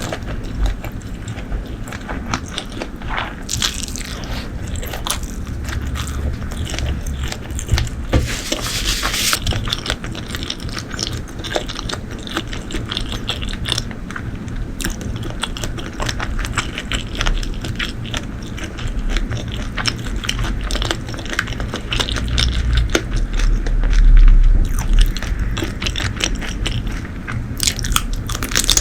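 Close-miked eating sounds: biting and chewing with wet mouth smacks and small crunches, over many seconds. There is a heavier low thump a few seconds before the end.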